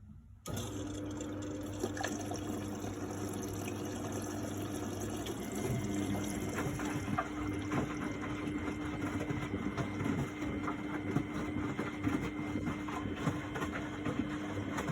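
1999 Miele Novotronic W828 washing machine moving water through itself, with a steady electric hum and a constant tone over rushing, crackling water. It switches on abruptly about half a second in.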